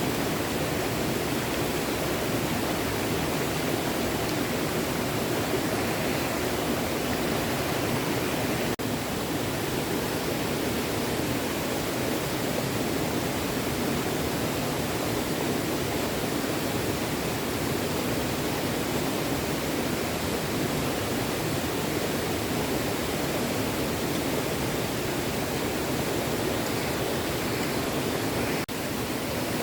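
A small stream flowing, with a steady rush of water and no breaks.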